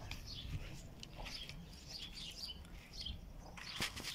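A small bird chirping over and over, short high notes about twice a second, with a single sharp click near the end.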